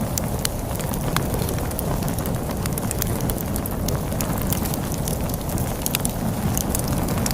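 Wood fire crackling with irregular sharp pops and snaps over a steady low rumble of storm wind.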